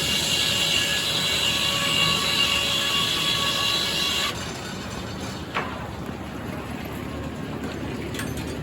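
Sawmill saw blade cutting through a red oak log with a loud hiss and high ringing tones. The cut ends abruptly about four seconds in, leaving the mill running with one sharp click a little later.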